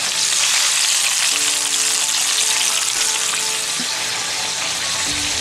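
Chicken pieces deep-frying in a pan of hot oil: a steady, loud sizzle.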